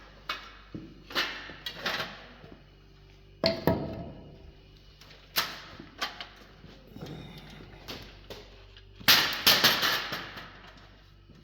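Metal clanks and knocks of a cover being taken off a Pullmax machine and of tools being handled, a few separate knocks at first and a dense clatter near the end.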